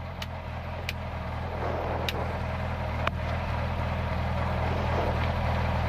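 Rally car engine idling steadily, heard from inside the cockpit while the car waits on the stage start line, with a few sharp clicks in the first three seconds.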